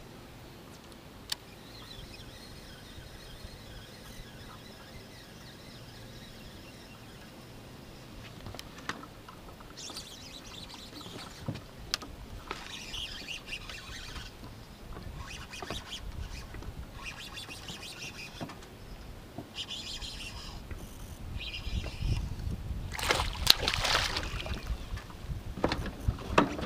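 Birds calling around a lakeshore in short high chirping spells, over a low steady outdoor background. A louder, rougher rush of noise comes a little over 23 seconds in.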